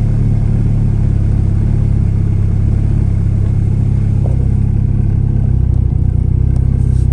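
Turbocharged Honda B16 four-cylinder idling steadily, its valvetrain quiet with new Blox lost-motion assemblies and freshly set rocker lash.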